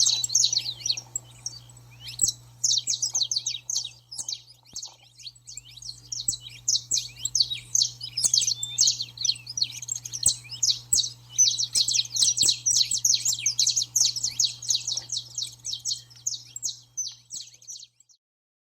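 Several saffron finches chattering and singing together in a dense run of rapid, overlapping chirps, over a low steady hum. The sound cuts off suddenly near the end.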